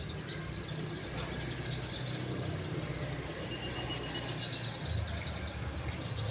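Many caged sogon sunbirds singing at once: high, rapid trills and chattering runs that overlap continuously, over a steady low background hum.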